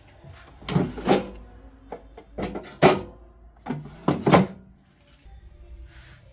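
A run of about seven knocks and clatters over some four seconds, the sound of cookware and utensils being handled during cooking. Faint background music plays under them.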